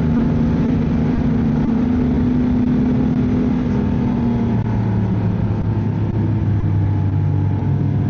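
Ski-Doo snowmobile engine running under way. The engine note drops about halfway through, as the throttle eases off.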